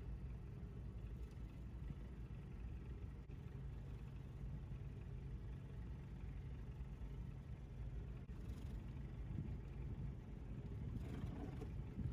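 Low, steady engine drone from a large motor yacht manoeuvring to dock. A brief rush of noise comes near the end.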